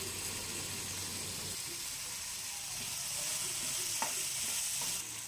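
Chopped tomatoes and onions sizzling in hot oil in a kadai as they are stirred with a steel spoon, sautéing down for a gravy base. One brief click about four seconds in.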